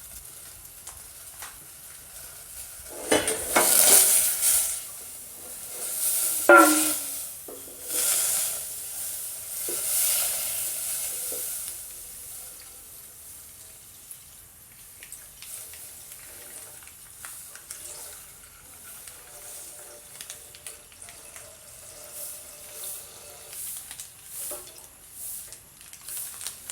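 Milk being poured into a hot pan, hissing and sizzling in several loud spells over the first dozen seconds, then quieter with small scattered clicks.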